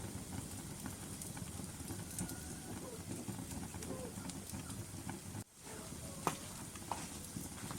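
Wood logs burning in a fireplace: a steady low rush of flames with scattered sharp crackles and pops. The sound cuts out for an instant about five and a half seconds in.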